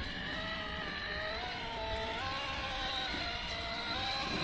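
The electric motor and geared drivetrain of an RC rock crawler whining, the pitch shifting up and down with the throttle as it struggles for grip on wet, slippery wood.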